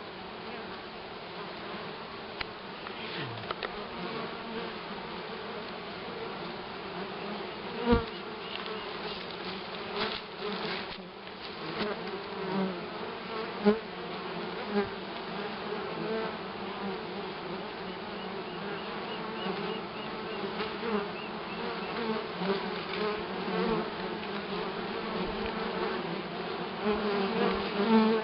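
Honeybees buzzing in numbers around a hanging straw sun hive: a steady hum, with single bees flying close past in rising and falling drones. There are a few brief bumps, the loudest about 8 and 13 seconds in.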